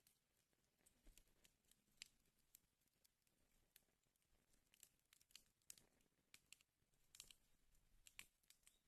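Faint crackling of a wood fire in a fireplace: irregular sharp pops and snaps over a soft hiss, some coming in quick clusters.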